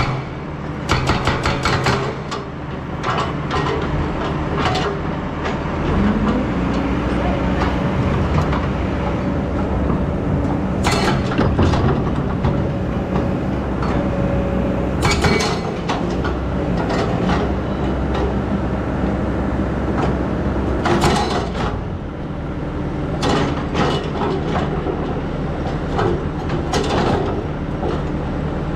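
Excavator's diesel engine running steadily, with several bursts of metallic clanks and rattles from the machine at work.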